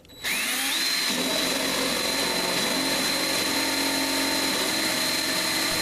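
Power drill spinning up with a rising whine, then running steadily as it cuts a round hole in a steel ammo can.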